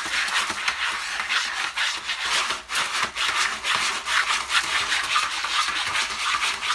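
Continuous rough scratching noise made of many quick, irregular strokes.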